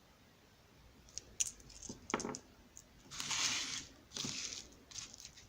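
Packaging being unwrapped by hand: a few sharp clicks, then two longer bursts of crinkling and tearing about three and four seconds in.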